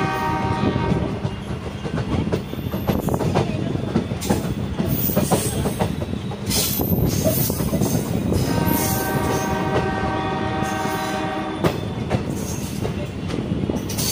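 Passenger train running at speed, its wheels clattering over the rail joints, while the WDP 3A diesel locomotive sounds its multi-tone horn. One blast cuts off about a second in, and a second blast starts about eight and a half seconds in and lasts about three seconds.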